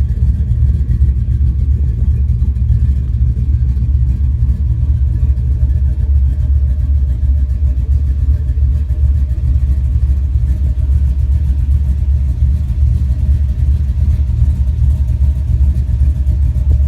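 2004 Cadillac Escalade V8 with a BTR Stage 3 truck cam, cut catalytic converters, an X-pipe and dumped Flowmaster Super 40 mufflers, running steadily at idle. The exhaust is loud and deep, with no revving.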